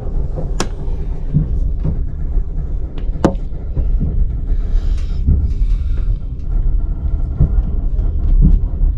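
Passenger train running, a steady low rumble with a few sharp clicks and irregular dull knocks.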